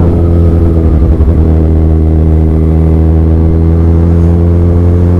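Kawasaki Z1000's inline-four engine running at a steady pitch through a Black Widow straight-pipe exhaust with its dB killer left out, heard loud from the rider's seat. The pitch wavers briefly about a second in, then holds steady.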